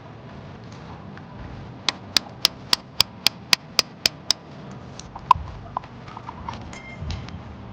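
A hand tool rapping on oyster shells stuck to rock to chip them loose: a quick run of about ten sharp knocks, some four a second, then a single louder knock about a second later and a few light taps.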